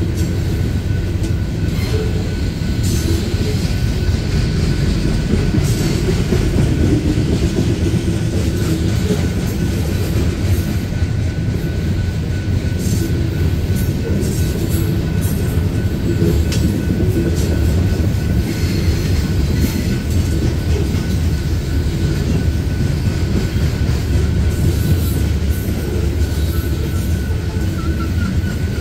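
Loaded coal hopper cars rolling past on the rails: a steady, heavy low rumble of steel wheels on track, with scattered short, sharp clicks.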